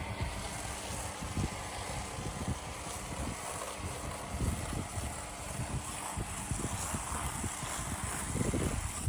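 Pressure washer running and spraying chemical foam through a foam cannon: a steady spray hiss over the machine's motor hum, with wind buffeting the microphone. The spray cuts off suddenly at the end.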